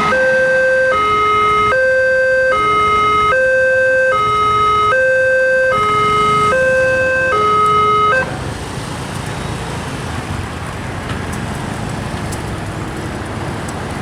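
Railway level crossing warning alarm sounding a two-tone electronic signal that alternates between a higher and a lower pitch, about one change per second, then cuts off suddenly about eight seconds in. A steady rushing noise continues after it stops.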